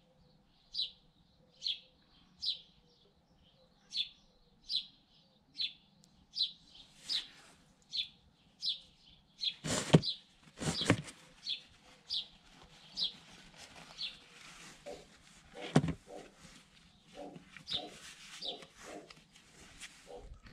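A small bird chirping over and over, one short high chirp about every second. Three loud sharp knocks come about halfway through and again about three-quarters in.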